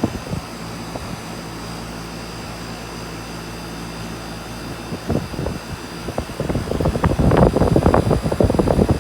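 3-ton Miller air conditioner unit running with a steady hum and faint high whine. From about five seconds in, irregular buffeting on the microphone grows loud and dominates toward the end.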